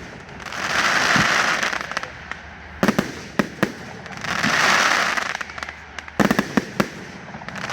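Fireworks display: a quick volley of sharp bangs every three seconds or so, each followed by a swelling hiss lasting about a second and a half.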